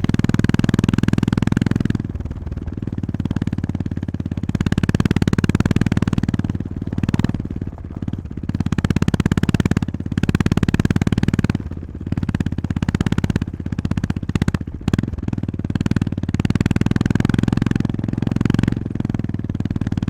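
Honda GB350S's air-cooled 348 cc single-cylinder engine running under way, its note rising and falling with the throttle, with several brief dips where the throttle is eased off.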